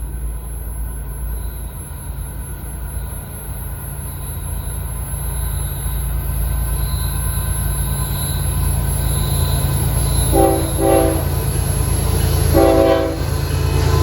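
Approaching Florida East Coast Railway diesel freight locomotives with a low rumble that grows louder. Two short horn blasts sound about ten seconds in, then a longer blast near the end.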